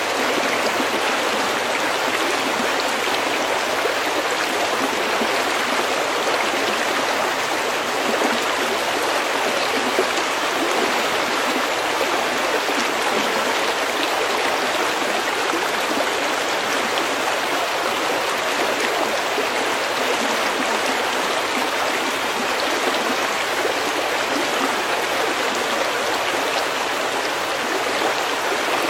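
A creek running steadily over pebbles, an even rushing, gurgling sound with no breaks.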